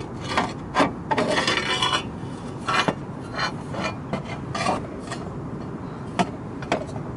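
Metal parts scraping and clinking irregularly against each other as they are handled and fitted together, with a brief metallic ring about a second and a half in.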